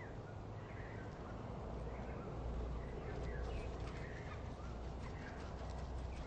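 Small birds chirping, short scattered calls over a steady low rumble, with a few light clicks.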